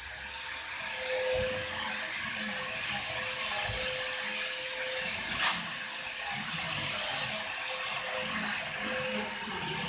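Vacuum cleaner running with a steady whirring hiss, and one sharp click or knock about five seconds in.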